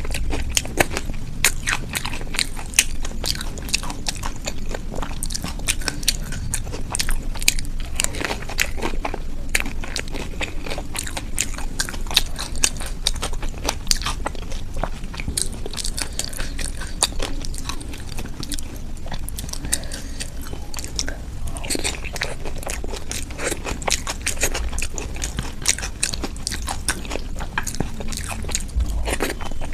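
Close-miked eating: repeated biting and chewing with crisp crunching and wet mouth clicks, in an irregular run of many small sharp sounds.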